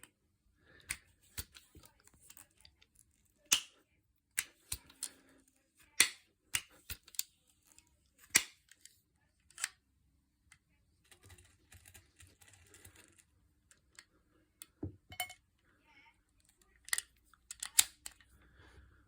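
A Benjamin Franklin .22 pump-up air pistol being handled: a string of irregular sharp clicks, some loud, with soft rustling handling noise between them.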